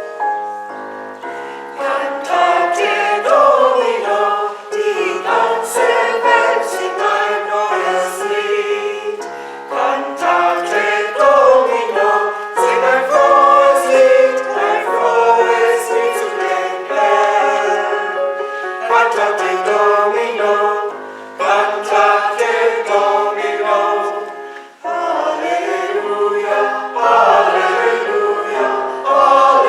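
Church choir singing, in phrases that dip briefly every few seconds.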